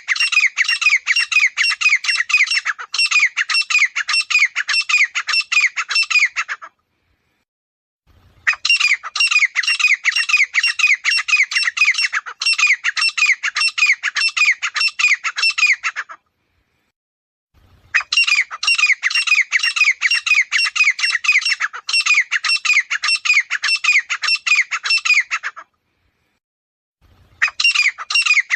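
Grey francolin calling: long series of loud, rapid repeated notes, about four a second. Each series lasts about seven seconds with a pause of a second or two between, and a fourth series begins near the end.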